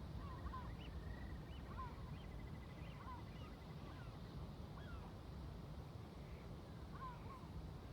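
A flock of seagulls calling, many short squawks overlapping at irregular intervals, over a steady low rumble of ocean waves and distant traffic.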